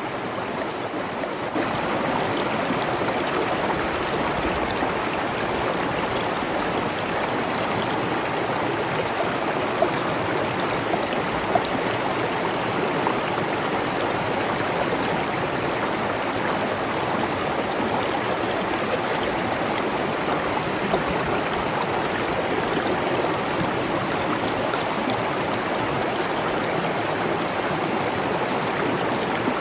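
Flowing stream water, a steady even rush that grows a little louder about a second and a half in.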